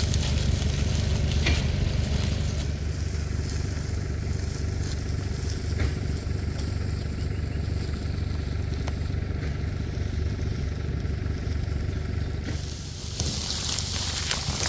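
A vehicle engine running steadily with a low hum, under light rustling and a few faint clicks; a louder burst of hiss comes near the end.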